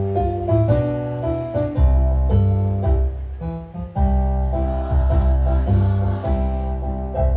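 Electronic keyboard playing chords over a strong, steady bass, as accompaniment for a hymn.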